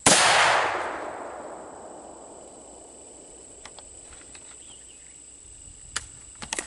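A single rifle shot right at the start, its loud echo dying away over about two seconds, followed by a few faint metallic clicks near the end.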